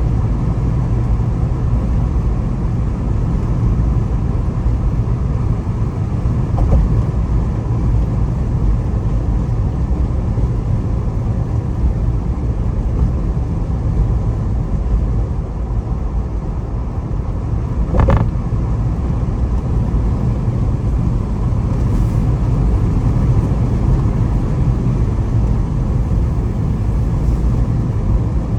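Steady engine and road noise heard inside a Jeep's cabin while driving, heaviest in the low end, with a single sharp knock about two-thirds of the way through.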